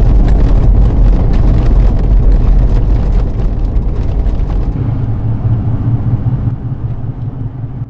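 Loud low rumble with a crackling noise above it, steady at first and then fading away over the last few seconds.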